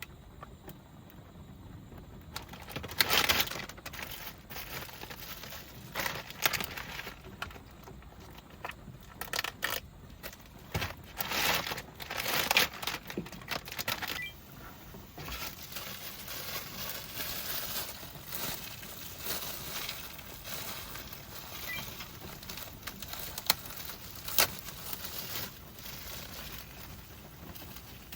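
Plastic wrapping of an instant ramen packet being handled, torn open and crinkled, in irregular rustling bursts mixed with small clicks and knocks.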